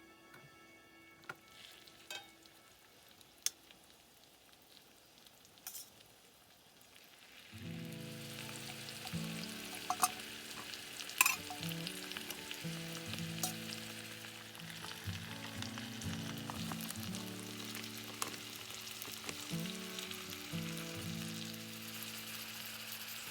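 Food sizzling in a cast iron skillet, with a few sharp clicks before it. The sizzle starts about seven and a half seconds in and keeps going, with background music over it.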